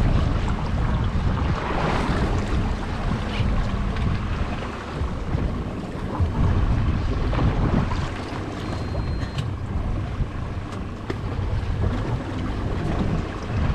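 Wind buffeting the microphone on a boat at sea, a gusty low rumble with the wash of waves under it.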